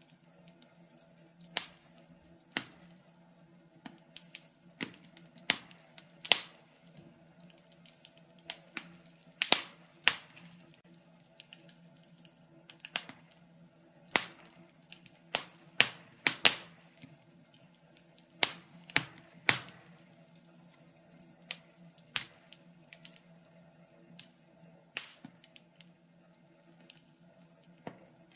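Wood fire crackling in a fireplace: irregular sharp pops and snaps, sometimes several close together and sometimes a second or two apart, over a faint steady low hum.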